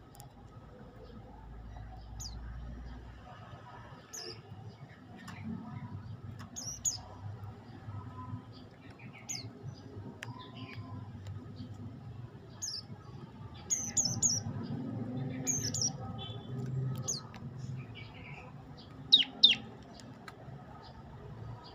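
Prenjak lumut songbird chirping: short, sharp high notes at irregular intervals, two of the loudest a couple of seconds before the end, over a steady low rumble.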